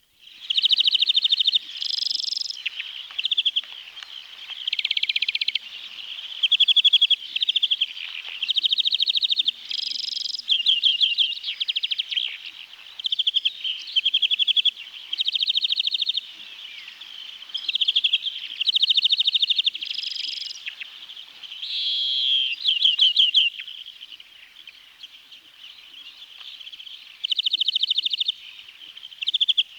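European greenfinch singing: a continuous run of rapid twittering trills, each about a second long, following one after another with short pauses.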